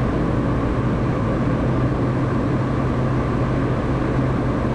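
Steady drone of an ATR 72's twin turboprop engines heard inside the cockpit while taxiing, an even rushing noise over a low hum.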